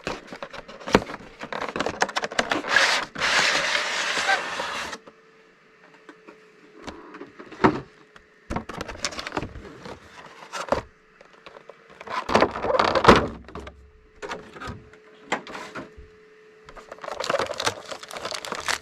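A cardboard collection box and its packaging being opened and handled: bursts of rustling and scraping with scattered knocks and taps. It is busiest for the first five seconds, then comes in shorter bursts.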